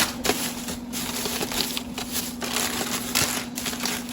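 Plastic-wrapped groceries being handled: irregular crinkling and crackling of plastic wrap with light knocks, over a steady low hum.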